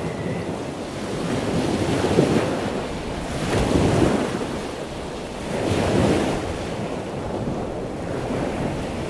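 Ocean waves washing in a steady rushing wash that swells louder a few times, about every two seconds, and then runs on more evenly.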